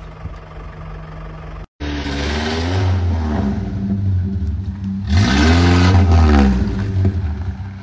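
Truck engine revved twice, its pitch climbing and falling each time; the second rev is the louder and longer, and the engine drops back toward idle near the end. Before this, a steadier, quieter engine hum is cut off abruptly about two seconds in.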